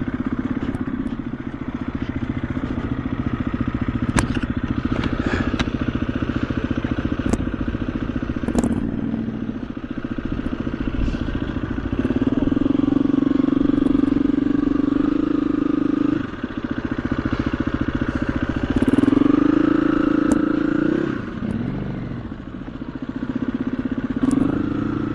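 KTM 350 EXC-F single-cylinder four-stroke dirt bike engine running at a steady low speed, with the revs raised three times, about halfway, about three-quarters of the way and near the end. A few sharp knocks sound over it.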